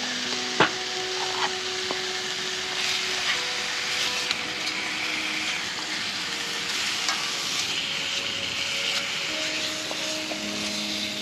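Steak frying and sizzling in a cast-iron skillet, with a sharp click about half a second in and a few lighter ticks.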